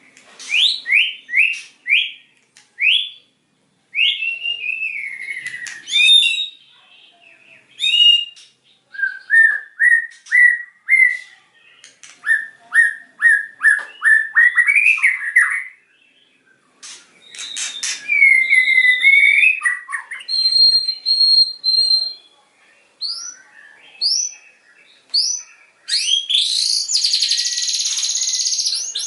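White-rumped shama singing a varied, loud song: sharp rising whistled notes and quick runs of repeated notes, broken by short pauses. About three-quarters of the way through it breaks into a dense, harsh chattering phrase, the rapid 'tembakan' volleys that keepers prize in a bird in full song.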